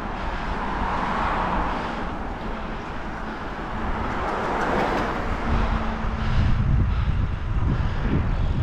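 Wind buffeting the microphone of a moving bicycle, over road traffic noise that swells and fades twice, as cars pass.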